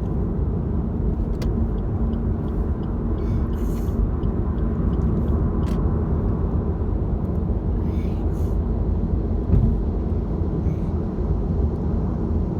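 Steady road and engine noise of a moving car heard from inside the cabin, a low even rumble.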